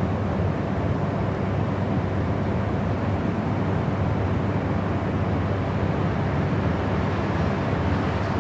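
Steady, unbroken noise from a white-noise sleep track, deep in tone with most of its sound low down and little hiss on top.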